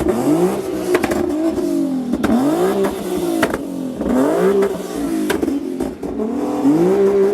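Car engine revved hard over and over, its pitch climbing and falling back about every second or so, with sharp exhaust cracks between the revs.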